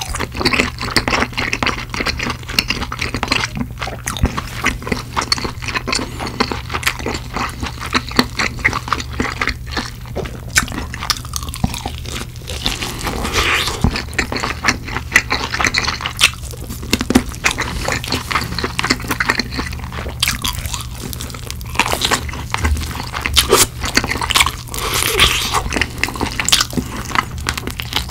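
Close-miked chewing of crispy-coated fried chicken: a dense run of crisp crunches and bites with wet chewing between them.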